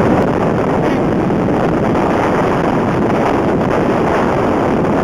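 Blizzard wind blowing hard across the microphone: a loud, steady rush of noise with no breaks.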